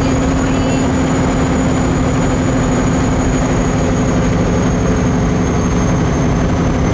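A heavy vehicle engine running steadily with road rumble, its drone unchanging, and a thin high whine over it.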